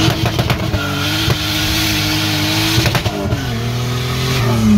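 Turbocharged L28 straight-six of a Nissan Skyline pulling hard through the gears, heard from inside the car: a break in the engine note with a few crackles right at the start and again about three seconds in, a steadier pull between, and the revs climbing again near the end.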